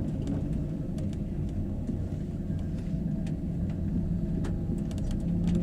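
Steady low rumble of a moving vehicle heard from inside, with a faint hum and a few light clicks.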